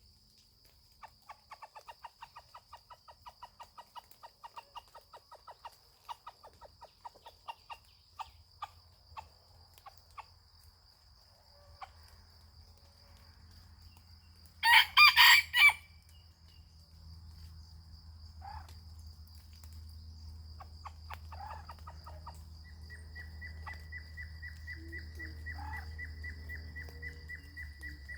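A junglefowl rooster crows once, loudly, about halfway through, a short crow of about a second and a half. Before it comes a quick run of short clucking calls, and a steady high insect trill runs underneath.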